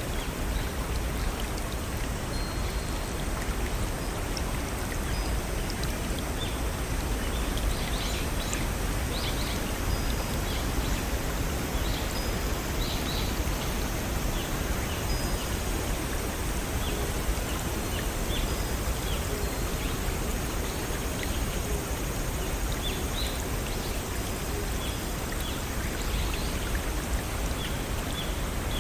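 Small forest stream and waterfalls running steadily, with faint short high notes scattered over the water.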